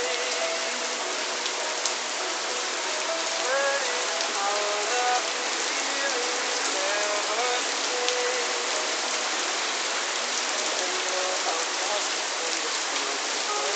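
Steady rain falling, an even hiss of drops on surfaces. Faint pitched sounds that rise and fall can be heard behind it over the first half.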